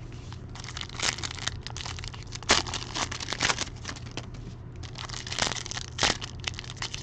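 Plastic wrapping on a box of trading cards being torn and crinkled in irregular bursts, over a steady low hum.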